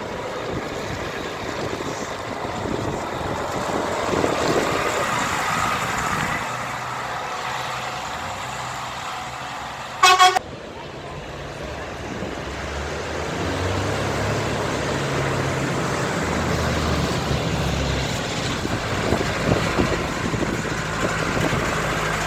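Trucks and tractors running past, with one short, loud horn toot about ten seconds in, then the deep drone of a heavy engine for several seconds.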